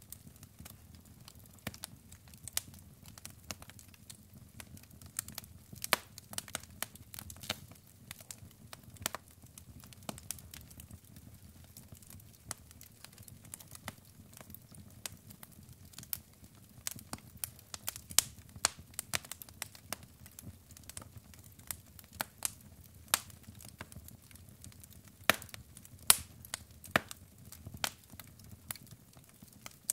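Wood fire burning in a fireplace: irregular crackling and snapping of burning logs, with sharper pops every second or so over a faint low rumble of the flames.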